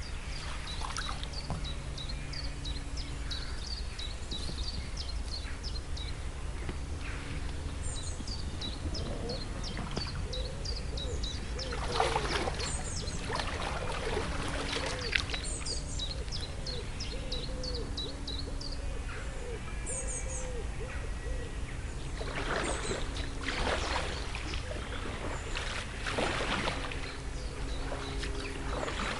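Kayak paddle strokes on canal water, a few louder splashy washes among them, with small birds chirping in quick runs of short high notes and a steady low hum underneath.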